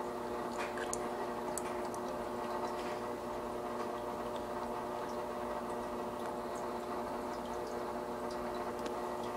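Aquarium filter pump running with a steady hum, water trickling and scattered small drips and ticks.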